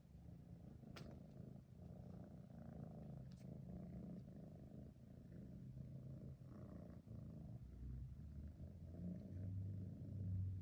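Domestic cat purring, a faint, steady low rumble. Two light clicks sound about one and three and a half seconds in.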